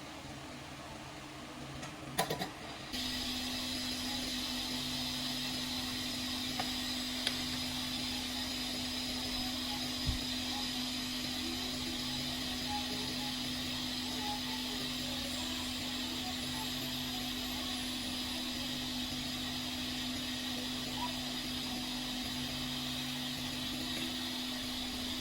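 A small electric blower or fan motor switched on after a couple of clicks about three seconds in, then running steadily with an even hum and hiss.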